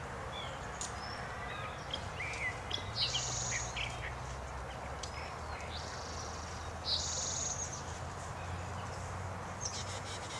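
Songbirds calling in the trees: a short, high, trilling phrase twice, about four seconds apart, with scattered chirps between, over a faint low hum.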